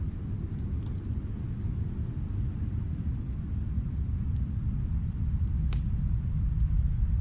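Wood fire crackling in a fireplace, a few sharp pops standing out over a steady low rumble that swells toward the end.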